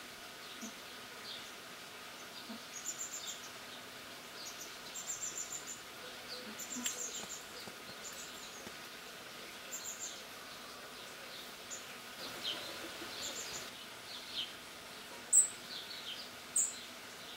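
Small birds chirping: short high chirps and brief trills scattered throughout, with one sharper, louder call near the end, over a faint steady background hum.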